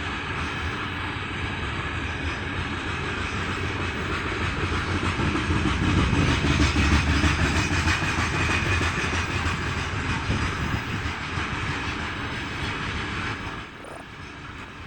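Heavy freight train of loaded wagons rolling slowly past with wheels clattering over the rails, loudest about six to eight seconds in, then fading and dropping off suddenly near the end.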